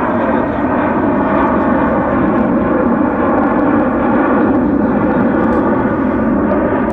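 Jet airliner's engines at takeoff power: a loud, steady rushing noise that swells a little midway and eases off near the end.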